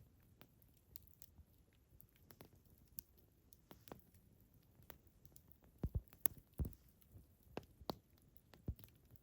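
Campfire of burning wood crackling: irregular sharp snaps and pops over a low hiss, with a cluster of louder pops about six seconds in.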